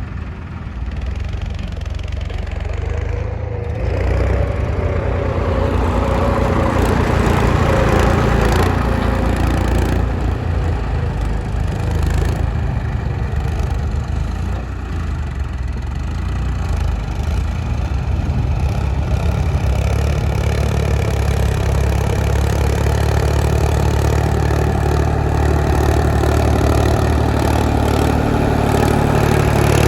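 Tractor diesel engine running steadily, getting louder about four seconds in and holding there.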